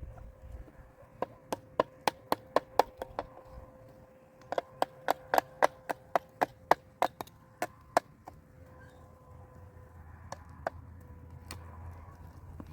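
Quick series of sharp struck knocks, like hand-tool blows on a hard object, about four a second in two runs with a short pause between, then a few scattered knocks near the end.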